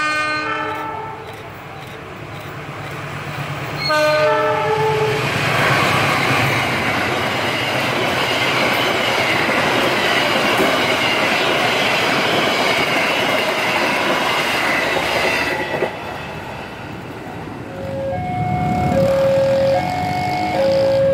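Passenger train sounding its multi-note horn in a blast at the start and another about four seconds in, then passing with a steady rush of wheels on rail that cuts off suddenly at about sixteen seconds. Near the end a two-tone alarm alternates between a high and a low note.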